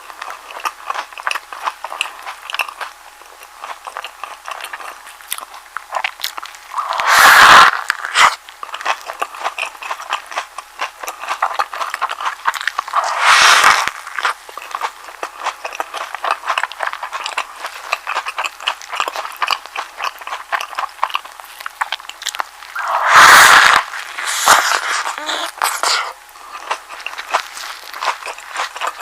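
Close-miked chewing of a soft egg sandwich: a steady run of small wet mouth clicks and smacks, with three louder bursts about a second long, at roughly 7, 13 and 23 seconds in.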